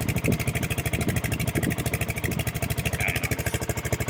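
New BSA Gold Star's 652 cc single-cylinder engine idling steadily, its exhaust firing in an even, rapid train of pulses.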